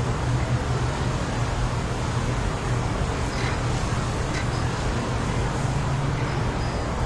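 Strong wind blowing steadily, a dense rushing noise over a deep rumble, with a few faint high whistles a little past the middle.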